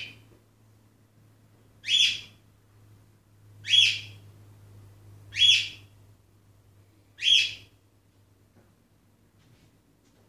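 A bird calling: a short, shrill call repeated five times, about every two seconds.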